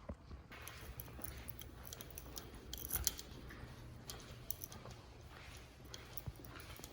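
Scattered small clicks and rustles of objects being handled, the loudest about three seconds in, over a low steady hum.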